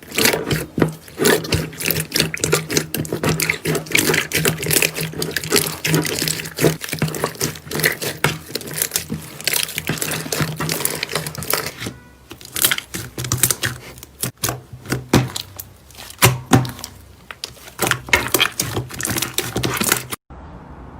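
Slime being squeezed and kneaded by hand, with dense wet clicks, squelches and crackling pops. It stops suddenly near the end.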